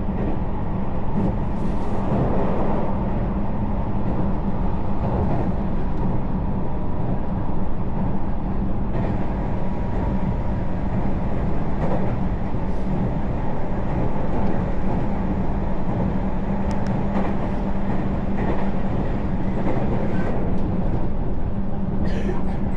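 Passenger train running steadily, heard from inside the carriage: a continuous rumble of wheels on rails with a constant low hum.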